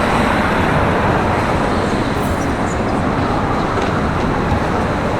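Steady city street traffic noise: a continuous din of passing vehicles with no single one standing out.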